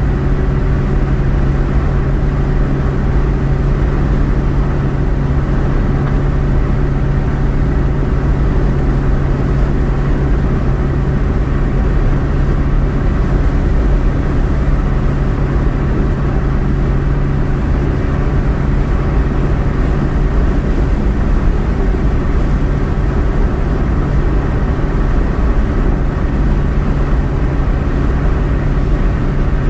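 Steady drone of a car driving on the road, engine and tyre noise with a low hum that does not change.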